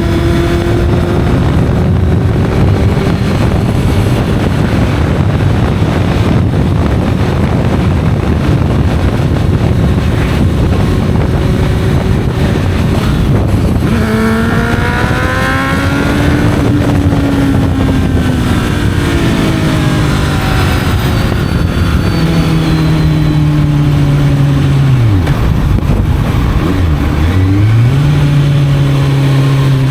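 Honda CB650F inline-four with an Arrow exhaust, ridden with heavy wind rumble on the microphone. The engine note climbs and falls with throttle about halfway through. Near the end it dips sharply twice, as with gear changes, then holds a steady cruising note.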